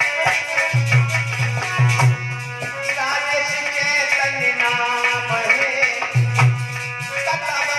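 Indian devotional music: tabla-style hand drumming with booming low bass strokes, under a sustained melody instrument.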